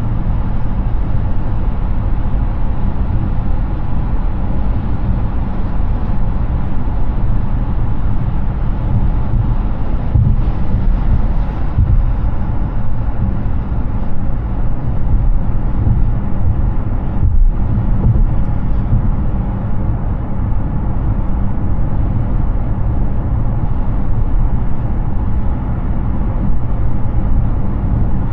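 Steady tyre and road noise from a Hyundai Ioniq 6 electric car cruising on a highway, deep and even, with no engine note.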